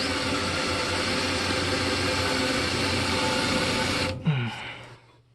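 Power tool spinning a wire wheel, brushing a gas pipe fitting clean: it runs steadily for about four seconds, then is switched off and spins down with a falling pitch.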